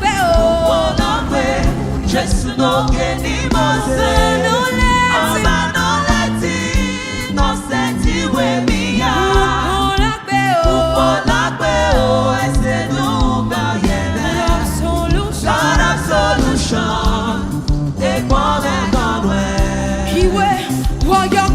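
Gospel praise music: voices singing over a band with a steady, repeating bass line.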